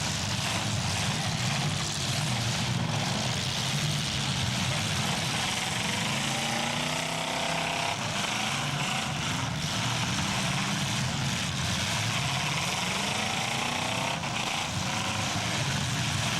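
Several full-size demolition derby cars' engines running and revving together in a steady roar, with engine pitch rising and falling at times and a few brief knocks.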